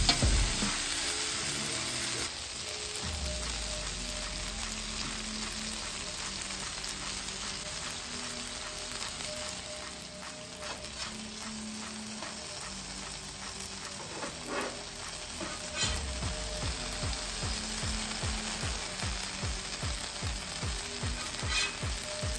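Birria tacos sizzling steadily in fat on a hot steel flat-top griddle, with a few short metal spatula clicks against the griddle. Quiet background music with a low beat plays underneath.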